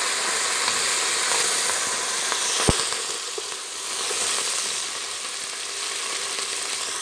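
Chopped coriander, mint and green chillies sizzling in hot oil with fried onions, stirred with a wooden spoon. There is one sharp tap a little before halfway.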